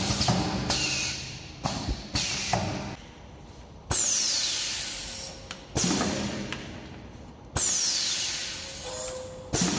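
Bag-on-valve aerosol filling machine running, its pneumatics venting air in sudden hisses about every two seconds, each fading away over a second or two; two of the hisses carry a falling whistle.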